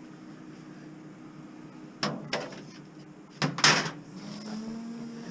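Knocks and bangs from scrap being handled: two pairs of sharp impacts about a second and a half apart, after a quiet start. A faint steady hum follows near the end.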